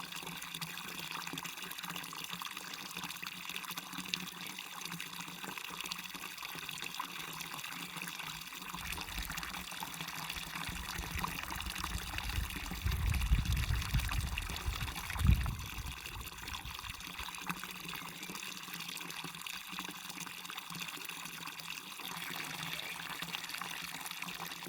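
Waterfall water rushing and splashing steadily. About halfway through, a low rumble swells for several seconds and ends with a short thump.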